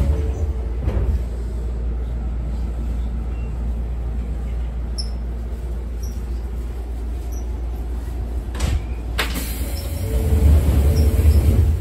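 Izuhakone Railway Daiyuzan Line electric train with a steady low rumble, swelling about ten seconds in, with a faint hum near the start and again late. Two sharp knocks about half a second apart come around nine seconds in.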